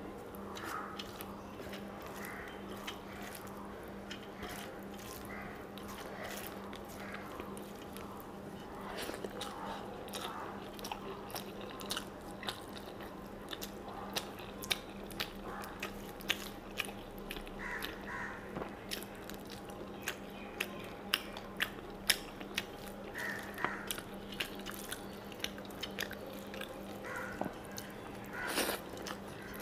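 Close-up mouth sounds of a person eating rice and fish curry by hand: chewing with wet smacks and many sharp clicks, thickest through the middle, and a louder smack near the end as a handful goes into the mouth. A steady low hum runs underneath.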